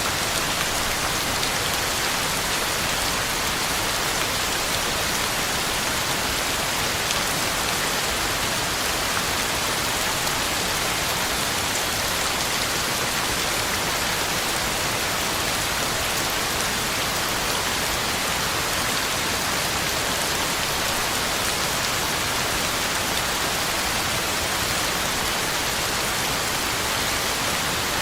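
Heavy rain falling steadily: an even, unbroken hiss with a fine patter of drops.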